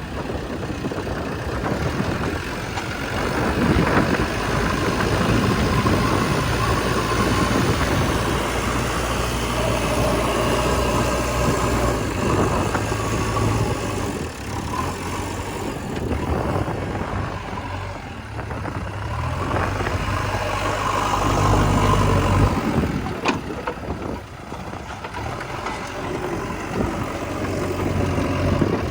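Diesel engine of a JCB 3DX backhoe loader working under load, revving up and easing off in turns as it digs and loads mud, with louder stretches early on and again about two-thirds of the way through.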